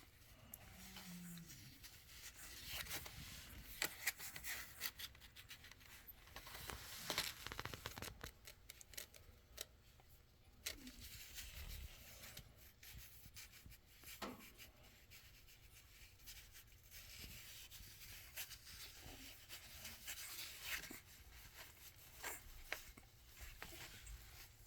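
American Bully puppies nursing: many faint, quick suckling clicks and rustling as they push against the mother and the bedding.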